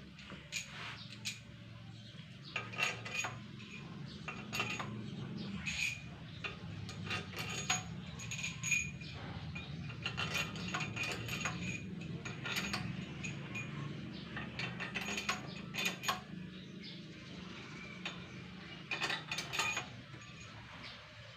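Scattered metallic clinks and taps of hand tools and metal parts being handled on an engine, over a steady low hum.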